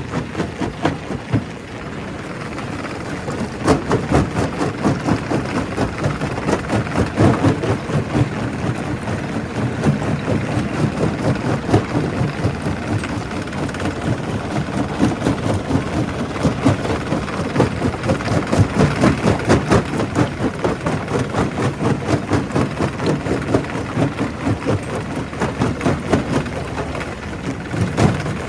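Primary rock crusher working: a steady machine drone under a constant, irregular clatter of rock knocking and cracking as stone is broken.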